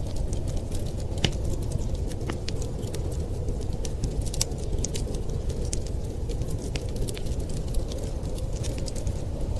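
Wood fire crackling with scattered, irregular sharp pops over a steady low rumble.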